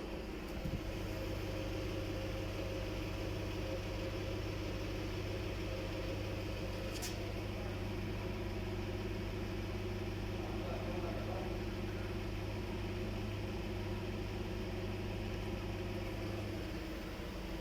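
Volkswagen Phaeton's air suspension compressor running, a steady electric hum that steps up with a click just under a second in as it pumps air into the repaired strut. A single short tick about seven seconds in.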